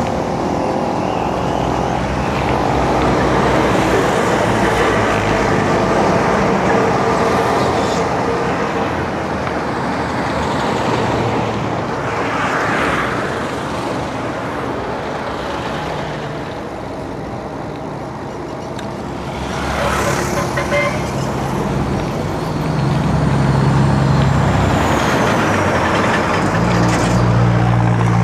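Road traffic close by: vehicle engines running and passing, a steady traffic noise that swells and fades as vehicles go by.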